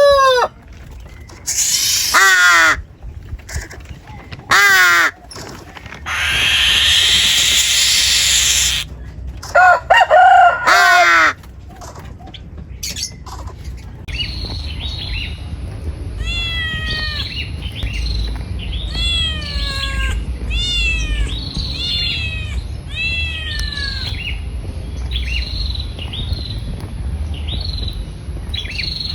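Bird calls: over the first half, loud separate calls that fall in pitch, mixed with several loud noisy bursts. About halfway there is a cut to a small bird singing short, repeated downward-sliding whistled notes over a steady high hiss.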